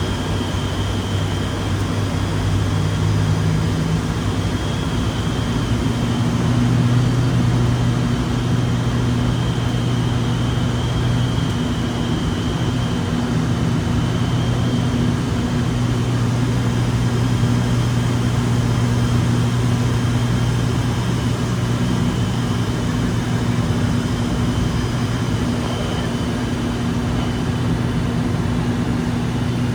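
An ATR 72-600's twin PW127-series turboprop engines and propellers drone steadily. Their low tone steps up in pitch a few seconds in, then holds.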